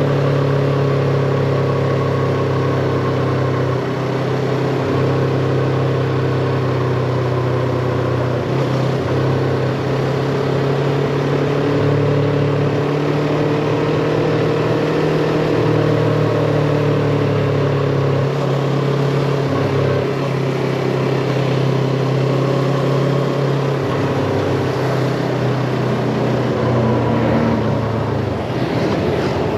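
Yamaha MT-25 parallel-twin motorcycle engine running on the move, its pitch shifting up and down in small steps with the throttle, over a haze of road and wind noise.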